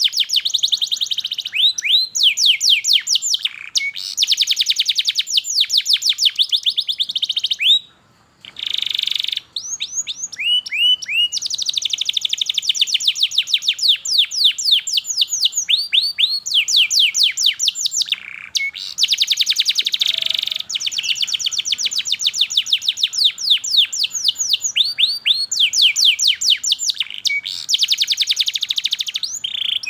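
Domestic canary singing long, fast trills of chirps: runs of quick notes, each sweeping downward in pitch, repeated many times a second. There is a brief pause about eight seconds in.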